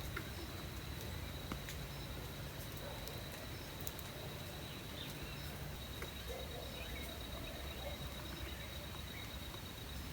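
An insect trilling steadily on one high, finely pulsed note, with a few faint chirps over a low rumble of outdoor ambience.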